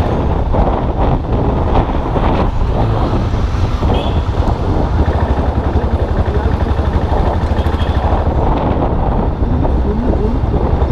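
Custom motorcycle's engine running steadily under way, its low pulsing exhaust note mixed with wind buffeting on the microphone.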